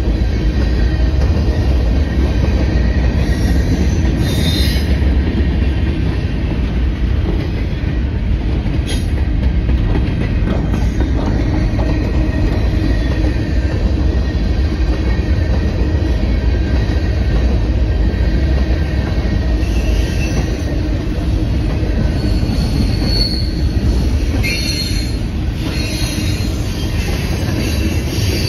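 Norfolk Southern manifest freight train's cars rolling past close by: a steady heavy rumble of steel wheels on rail. Short high wheel squeals come about four seconds in and several more near the end.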